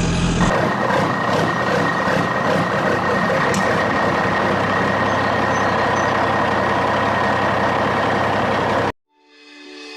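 A heavy vehicle's engine running steadily with a constant whine, cutting off suddenly near the end; music then fades in.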